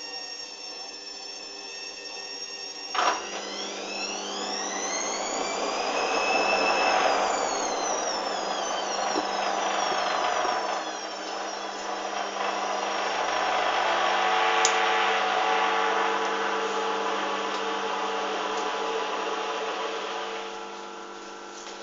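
Hoover washing machine on its first intermediate spin: a click about three seconds in, then the motor and drum whine rises, falls back, builds again and eases off near the end. The spin keeps dropping back, which the owner puts down to suds lock and an unbalanced load.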